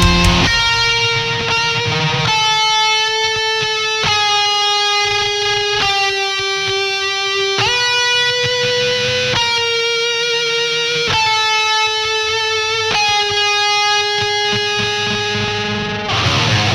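Instrumental band music without singing: a guitar plays held chords that change about every two seconds. Near the end a louder, rougher passage comes in.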